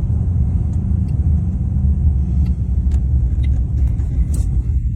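Car driving, heard from inside the cabin: a steady low road and engine rumble with a few light ticks and rattles.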